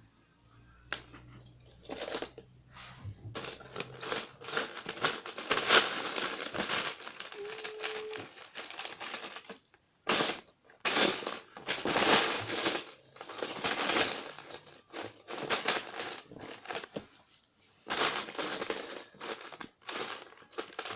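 Plastic Lego bricks clattering as hands rummage through a pile of pieces, a dense run of quick rattles and clicks with a brief lull about ten seconds in.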